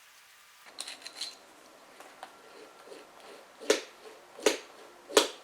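Dirt bike throttle assembly parts clicking as they are handled and fitted. A few light knocks come first, then three sharp clicks about three-quarters of a second apart.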